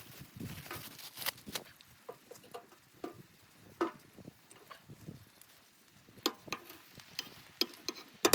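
Irregular sharp clicks and light knocks, a dozen or so scattered across several seconds, with one louder knock near the end.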